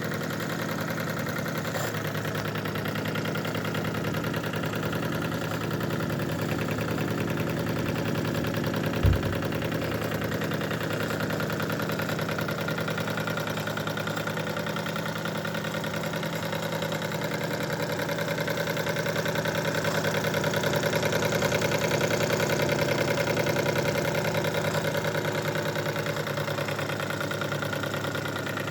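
Wilesco D22 live-steam twin-cylinder model steam engine running steadily with a fast, even beat that sounds like a diesel tractor. A single low thump comes about nine seconds in, and the running grows a little louder for a few seconds past twenty seconds.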